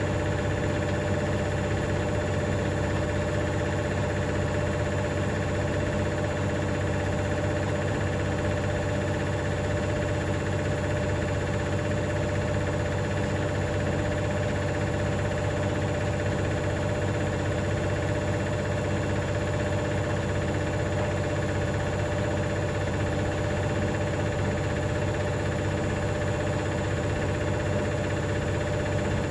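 Hoover DynamicNext washing machine spinning at a steady speed: an even motor and drum hum with a rattle, a noise the owner believes was caused by a £1 coin lying under the heating element.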